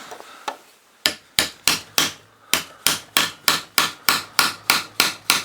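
A small hammer tapping on metal in a fast, even run of light blows, about three or four a second, starting about a second in after a single earlier knock.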